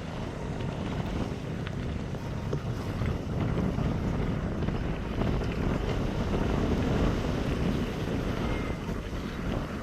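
Wind buffeting the microphone: a low, rumbling rush that swells through the middle and eases off near the end.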